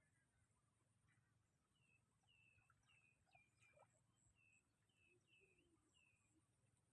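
Very faint outdoor sound with a small bird calling: a run of about nine short, high chirps, roughly two a second, over a low steady background hum.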